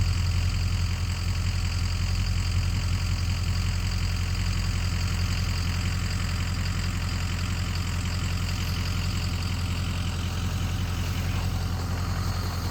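Jet boat engine idling steadily, a low even rumble with no revving.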